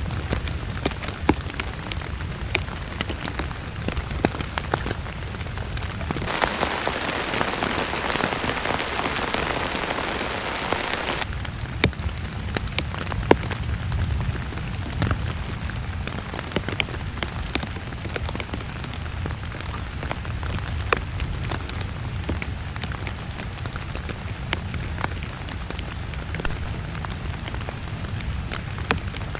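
Heavy rain falling on a surface, with a steady low rumble and many sharp individual drop hits. About six seconds in, a louder hiss of rain cuts in suddenly and stops just as suddenly some five seconds later.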